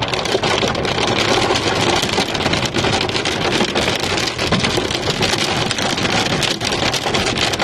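Hail and rain pelting a vehicle, heard from inside: a dense, steady clatter of many small impacts.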